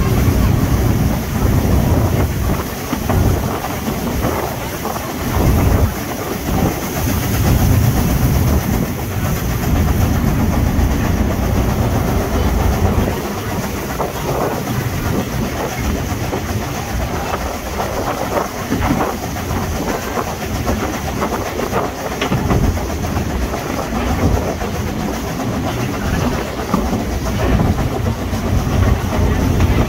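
Narrow-gauge Ffestiniog Railway train running along the line: a steady rumble of the carriage with the wheels clicking and knocking irregularly over the track.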